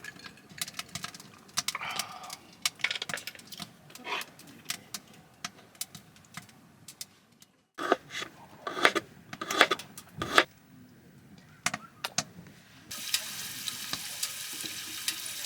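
Cookware and utensils clinking and knocking in irregular light taps, as in camp cooking. A steady hiss comes in near the end.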